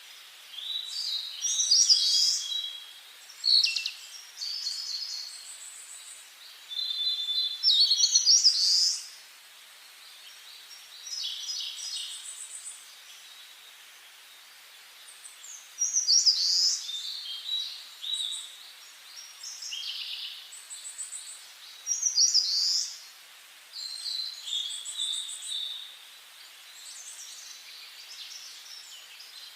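Forest songbirds singing: high, varied song phrases a second or two long, separated by short pauses, over a faint steady hiss.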